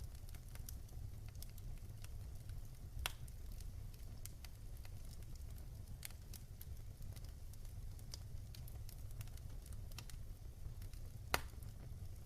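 Wood fire crackling in a fireplace: scattered small pops and snaps, with two louder pops about three seconds in and near the end, over a steady low rumble.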